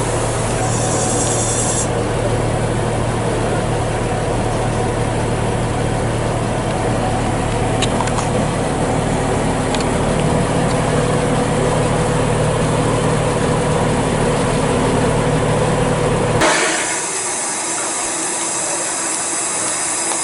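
A train running, heard as a steady engine drone with a low hum. About sixteen seconds in the sound changes abruptly to a thinner hiss with the low rumble gone.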